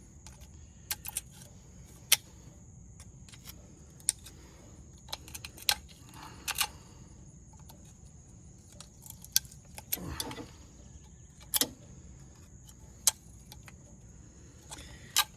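Irregular sharp metallic clicks and taps, with a few short scrapes, as a tool picks chunks of rust out of the vane ring of a turbocharger. The rust build-up had clogged the ring.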